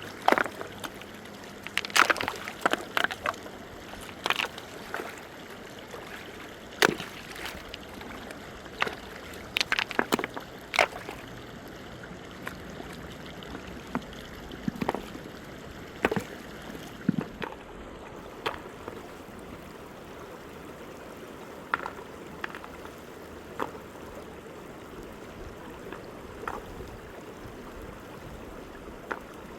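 River water flowing steadily, with frequent sharp, irregular splashes and sloshes that thin out about two-thirds of the way through.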